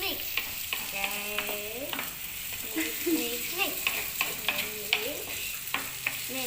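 Onions frying in oil in a clay pot, sizzling steadily, while a spoon stirs them with repeated clicks and scrapes against the pot.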